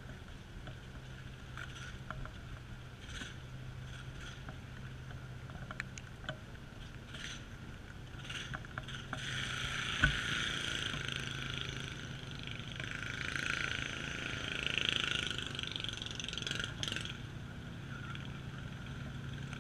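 Outdoor rain ambience: scattered drops tick against the camera housing over a steady low hum. A louder wash of hiss builds up about halfway through and fades again near the end.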